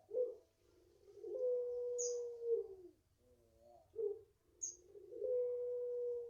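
Puter pelung dove cooing: twice a short note followed by a long, drawn-out held coo that drops in pitch at its end, the prized long call of this breed. A brief high chirp sounds twice, about two seconds in and near the end of the second coo.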